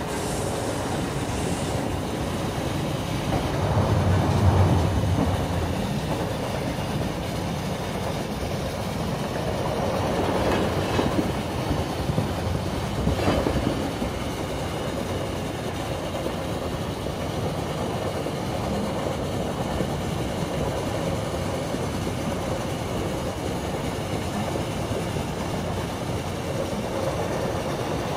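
Railway carriage running along the track, heard from inside the compartment: a steady rumble of wheels on rails with clickety-clack, swelling louder a few seconds in and again about halfway through.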